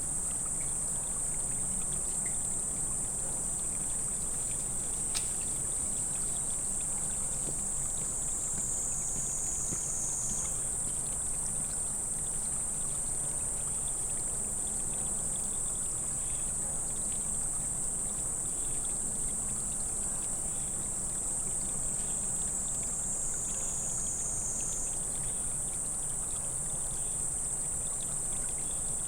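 Insects buzzing in one continuous high-pitched drone that sags slightly lower twice, over a faint low steady hum.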